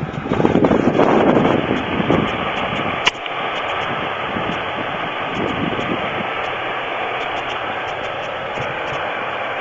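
A 2002 Pontiac Grand Am's 3.4L V6 running, louder for the first couple of seconds, then idling steadily with a faint regular ticking that the owner wonders is piston slap. One sharp click about three seconds in.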